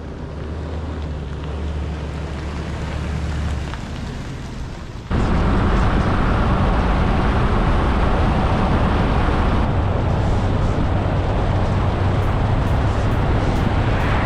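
Pickup truck driving: a low engine hum for the first few seconds, then, about five seconds in, an abrupt switch to loud, steady road and wind noise.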